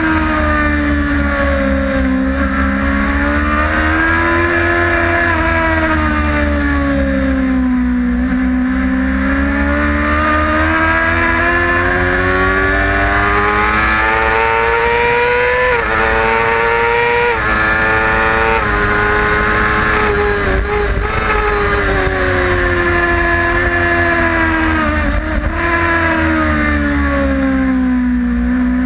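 Supersport racing motorcycle's engine heard from on board at speed, its pitch falling and rising smoothly through the corners. About halfway through it makes three quick upshifts in a row, the note climbing and dropping about once every second and a half. Wind rush on the microphone runs underneath.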